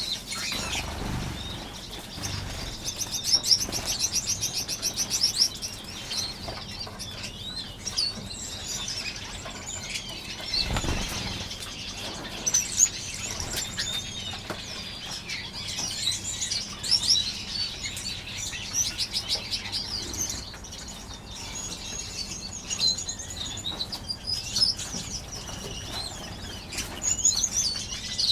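Many small aviary finches chirping and calling over one another, with wingbeats as birds flit about. A fast rattling trill comes in about three seconds in, and low thumps sound about a second in and again near eleven seconds.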